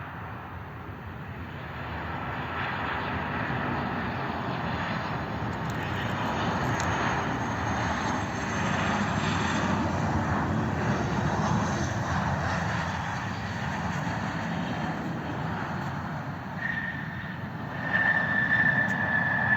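Airliner landing: a broad rush of engine and air noise builds and stays loud as the plane slows on the runway. Near the end a steady high whine starts and grows louder as the overall noise jumps, the sound of the aircraft braking.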